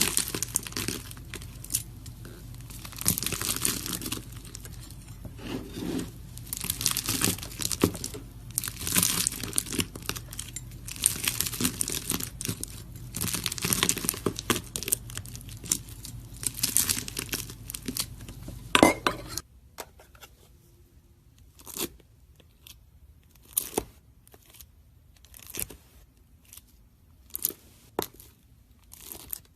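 Crunchy slime crackling and popping as a knife cuts and presses through it, in dense runs of small crunches. About two-thirds of the way through the sound drops to a quieter background with sparser, separate crunches.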